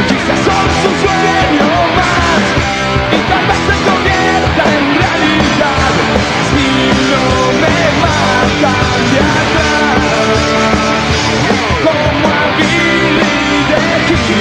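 Punk rock band playing live at full volume, with electric guitars and drums over a steady driving beat.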